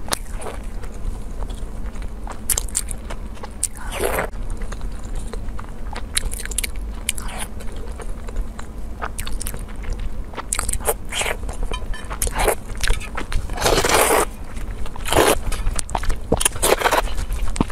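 Close-miked eating: crunchy bites and chewing, with scattered clicks and a few longer noisy bursts about four seconds in and again near the end.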